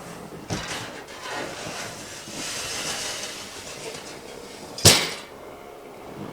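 Handling noise from a small dog sled being taken out of a pickup truck's bed: a knock about half a second in, scraping, then one loud bang near five seconds.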